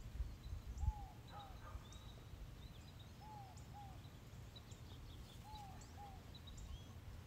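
A bird repeats a short two-note call about every two seconds, each note rising and falling in pitch. Other small birds chirp at a higher pitch, and a low rumble fades out after the first second.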